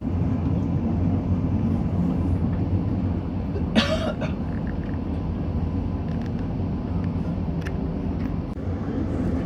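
Steady low rumble of the KTT double-decker train in motion, heard from inside an upper-deck passenger carriage, with one brief sharp noise about four seconds in.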